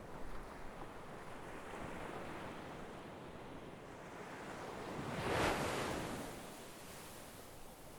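Sea waves washing ashore, a steady surf wash with one wave breaking loudest about five seconds in, then fading back.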